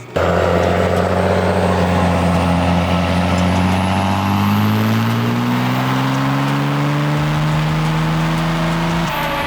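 Cummins turbo-diesel pickup engine making a dyno pull under full load: the engine note climbs steadily as the revs rise, with a high turbo whistle rising with it, then drops off sharply near the end as the run is over.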